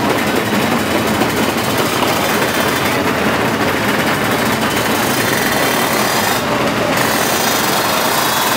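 Drag racing motorcycle engines at high revs: a loud, steady, harsh rattle of rapid pulses with no clear pitch.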